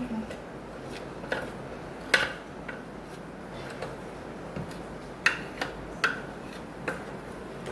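Scattered clinks of kitchen utensils against dishes, about six light knocks with a short ring, while the nugget mixture is portioned and set out.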